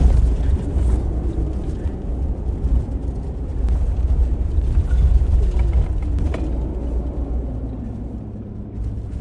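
Vehicle driving off-road over rough ground, heard from inside the cabin: a heavy low rumble with a couple of sharp knocks.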